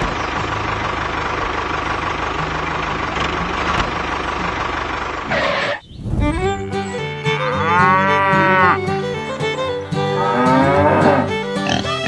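A steady, noisy mechanical drone that cuts off sharply about six seconds in. Background music follows, over which a cow sound effect moos twice in long, drawn-out calls.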